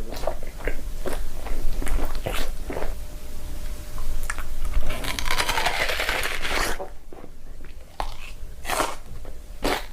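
Close-up eating sounds: repeated crunching bites and chewing of crisp food. A denser rustling hiss comes a little past halfway, and a run of sharp crunches comes near the end.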